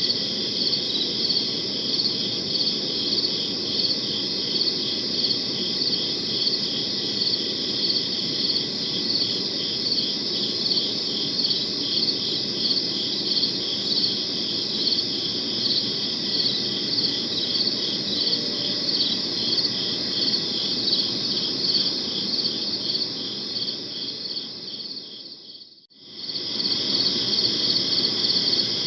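Crickets chirping in a steady, evenly pulsing high-pitched chorus over a low hiss. Near the end the whole sound fades out to near silence for about a second and then comes straight back, as at the seam of a looped recording.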